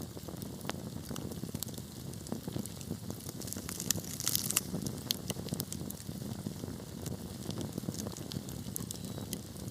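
Wood fire burning steadily, with a low rumble of flames under frequent irregular sharp crackles and pops, a brief denser flurry of crackling about four seconds in.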